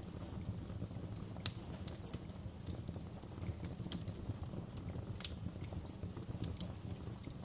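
Wood fire crackling in a fireplace: irregular sharp pops and snaps over a steady low rumble of the flames, the loudest pop about a second and a half in.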